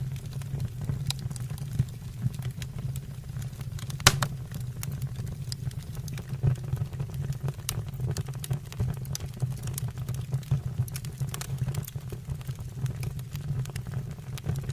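Fire burning in a fireplace: irregular crackles and pops over a steady low rumble of the flames, with one sharp, louder pop about four seconds in.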